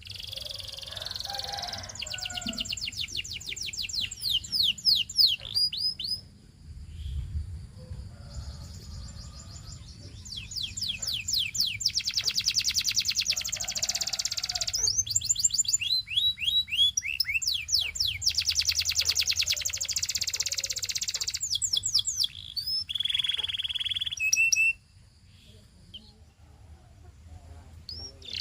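Domestic canary singing: long runs of fast, rapidly repeated trilled notes and quick sweeping chirps, with a held whistle near the end. The song breaks off a few seconds before the end.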